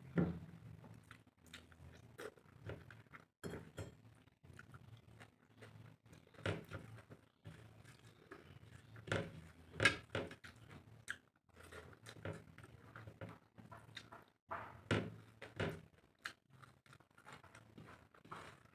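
A person chewing mouthfuls of rice and prawn curry eaten by hand, close up, with irregular smacks and clicks of the mouth.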